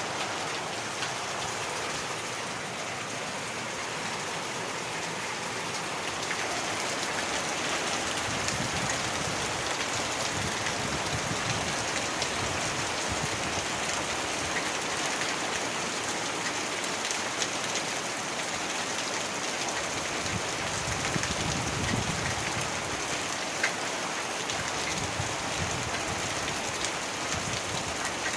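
Heavy rain falling steadily, with individual drops pattering on a surface.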